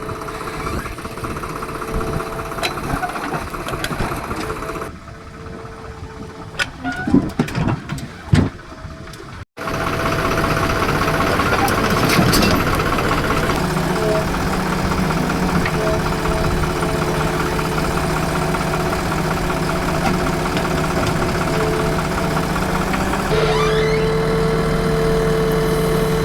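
Diesel engine of a JCB 3DX backhoe loader running steadily while it digs and loads mud, its note stepping up and down as the hydraulics are worked. In a quieter stretch before the middle there are a few sharp knocks.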